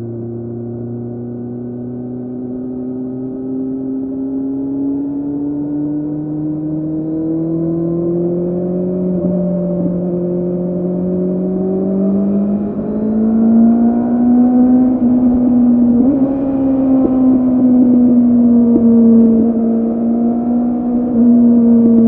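2006 Kawasaki Z750's inline-four engine through a Scorpion carbon exhaust with the dB killer removed, accelerating on the road with its pitch rising slowly. About thirteen seconds in the bike is inside a road tunnel, where the exhaust gets louder and holds a high, fairly steady note.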